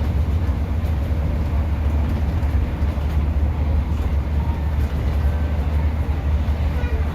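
Steady low rumble heard inside the carriage of a Class 150 diesel multiple unit, its underfloor diesel engine and running gear making an even drone without breaks.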